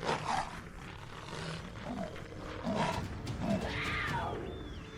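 Wild animal growling and snarling in several short, rough bursts about a second apart, the loudest near the start.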